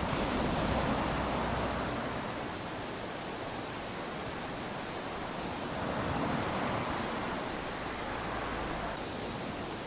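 Small waves lapping onto a sandy beach: a steady wash of surf that swells at the start and again about six seconds in.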